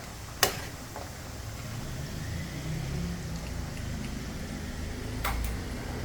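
A sharp knock about half a second in and another near the end, over a steady low engine-like rumble.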